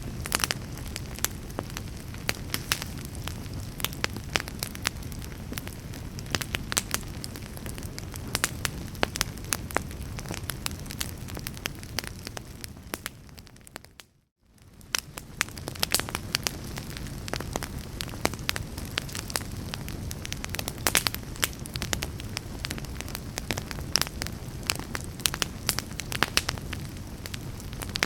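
Fireplace fire crackling and popping, with many sharp snaps over a steady low rumble of burning. About halfway through the sound fades out to silence for a moment and fades back in.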